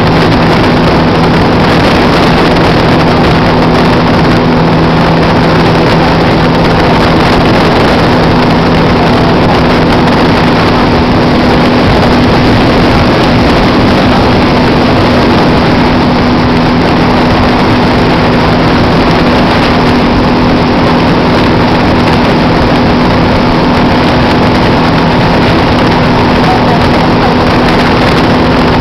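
Motorboat engine running loud and steady at a constant speed, with a dense rushing noise over it.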